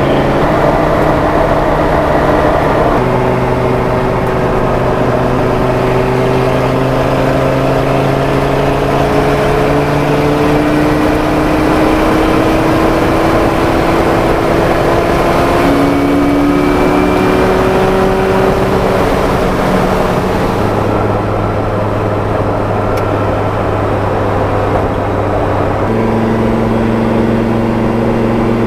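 Audi R8 V10 engine in a Porsche 917 recreation, pulling under load with its note rising slowly and steadily. Its pitch steps sharply at gear changes about three seconds in, around twenty-one seconds and again near the end.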